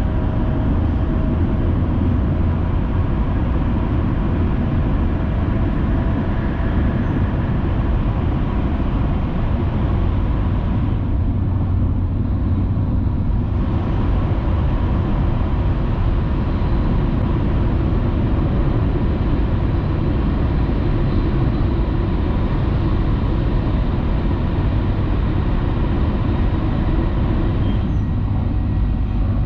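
Steady running noise of a Hayabusa Shinkansen train at speed, heard from inside the passenger cabin: a deep rumble with a hiss above it. The hiss dulls for a couple of seconds about eleven seconds in and again near the end.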